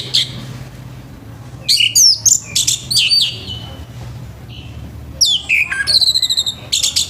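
Orange-headed thrush singing loud, rapid whistled phrases in two bursts, about two seconds in and again about five seconds in, with quick rising and falling notes and fast repeated high notes. A steady low hum runs underneath.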